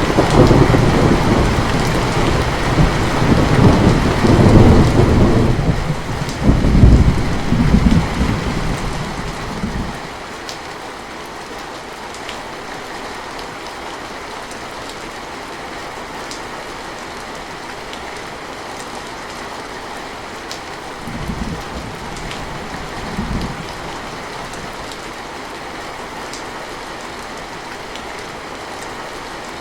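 Steady rain with a long roll of thunder that is loudest in the first few seconds and dies away about ten seconds in. Near the end come two brief, fainter rumbles of thunder.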